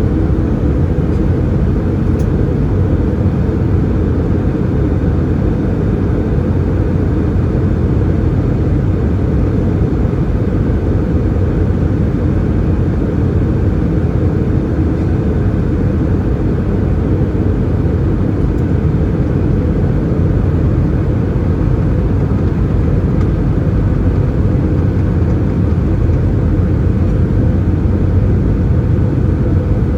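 Steady cabin noise inside an Airbus A320-214 in flight: a constant low rumble of airflow and its CFM56 engines, unchanging throughout.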